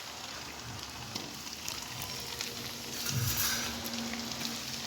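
Semolina dough pieces deep-frying in hot oil, a steady sizzle with fine crackles. The sizzle surges louder for a moment about three seconds in.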